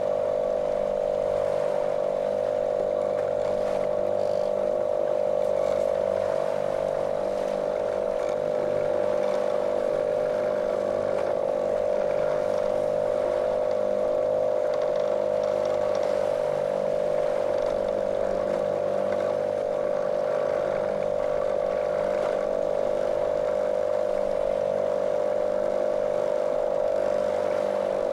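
Small motorboat's motor running at a steady speed, a monotonous, unchanging drone.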